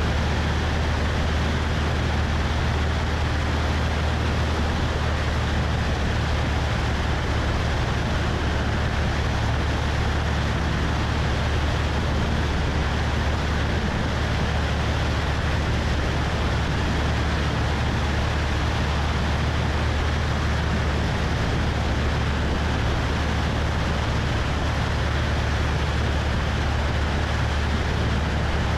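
Cessna 172's piston engine and propeller droning steadily in cruise, with wind rushing over the wing-mounted microphone.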